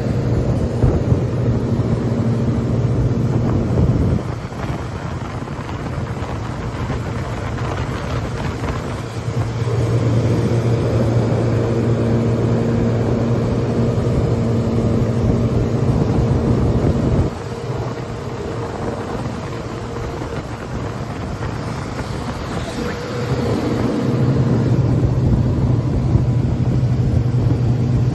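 Watercraft engine running under way, with heavy wind on the microphone. The engine note drops about four seconds in, comes back up about ten seconds in, drops again about seventeen seconds in and returns near the end.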